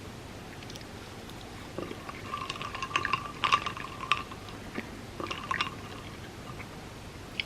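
Wet, sticky chewing and mouth sounds of someone eating close to the microphone: clusters of clicks and squelches, mostly between about two and six seconds in.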